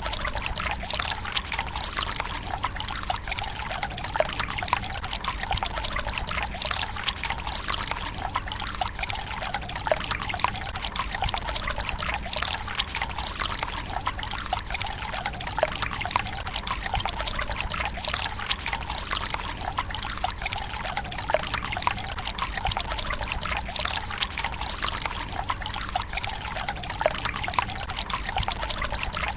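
Water from the bamboo spout of a Japanese tsukubai pouring and trickling steadily into its stone basin, with many small splashes and drips.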